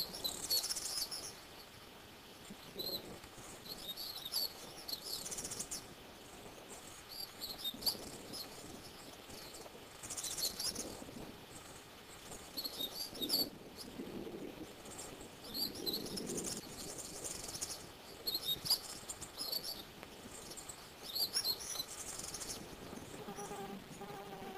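High-pitched bird chirps in short clusters every couple of seconds, with faint rustling now and then. A low steady buzz starts near the end.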